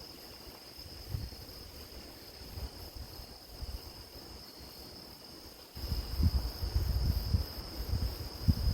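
Grass insects chirring in a steady high drone, with wind buffeting the microphone in low rumbles that grow much louder about two-thirds of the way through.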